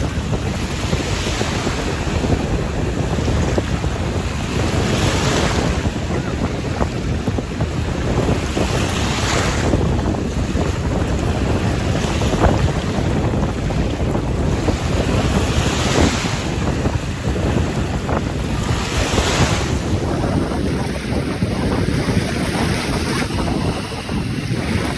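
Caspian Sea waves breaking and washing on the shore, surging in loud swells of hiss every few seconds. Wind rumbles against the microphone throughout.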